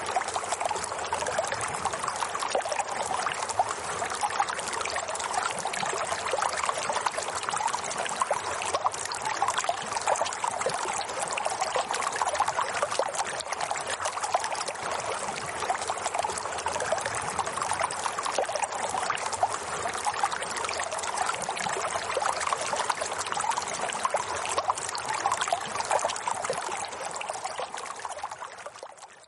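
Running water flowing steadily, a continuous splashing trickle like a small stream; it fades out near the end.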